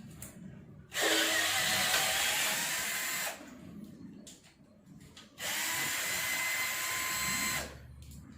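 Cordless drill/driver unscrewing the oil pan bolts of a truck engine in two runs of about two seconds each. Each run starts with a rising whine that then holds steady, and there are a few light clicks between the runs.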